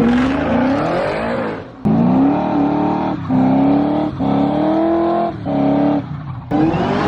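Car engine revving hard in a series of pulls, its pitch climbing and then holding high, with short breaks between pulls.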